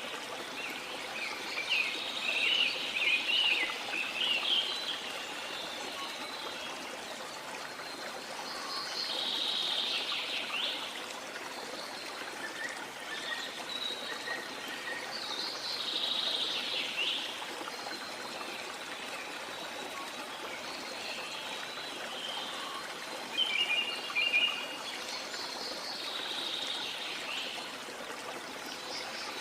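A river flowing steadily, with birds calling over it in short bursts of chirps several times, the loudest near the start and again a little after the middle.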